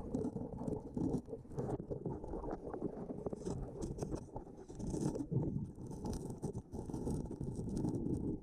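Underwater sound around a scuba diver collecting sea urchins: a dense, irregular crackle of small clicks and knocks.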